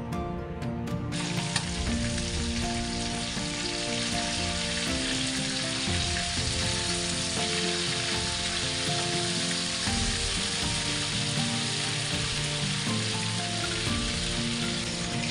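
Food sizzling as it fries in hot oil, a steady loud hiss that starts suddenly about a second in. Background music plays underneath.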